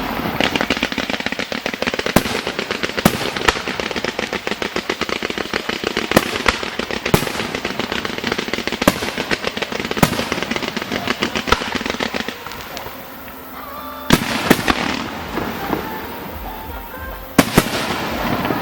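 Fireworks display: aerial shells bursting with loud sharp bangs every second or so over a dense, continuous crackling of crackle-effect stars. The crackle dies down about two-thirds through, then two more big bursts come near the end.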